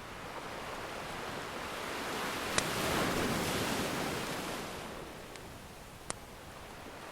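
Ocean surf: a wave swells and washes in, loudest about three seconds in, then ebbs. Over it a wood fire crackles, with two sharp pops.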